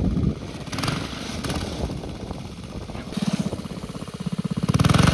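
Small mini bike engine revving under load, dropping back and then surging again about three seconds in and louder near the end.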